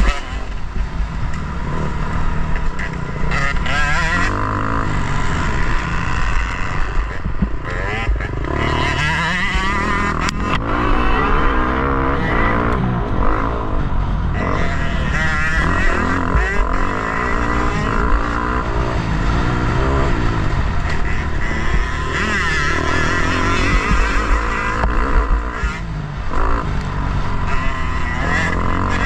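Motocross bike engine racing, its revs rising and falling again and again through gear changes and throttle blips, with wind noise over it.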